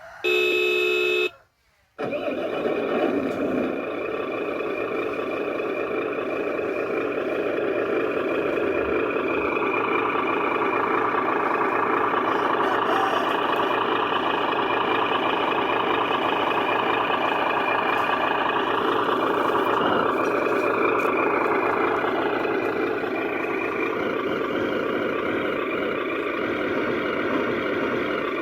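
Remote-control 8x8 truck: a horn toot lasting about a second, a short break, then the truck's motor running steadily.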